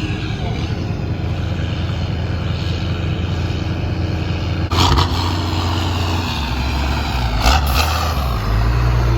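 Large truck engine running loudly and steadily, with a slowly rising whine in the last couple of seconds and two short louder bursts around the middle.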